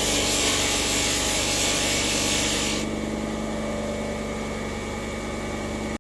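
A power tool runs steadily with a rasping, abrasive hiss against a workpiece. About three seconds in, the hiss drops away while the motor keeps running.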